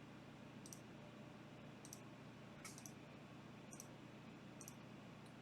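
Faint computer mouse clicks, about six of them roughly a second apart, re-running a list randomizer over and over.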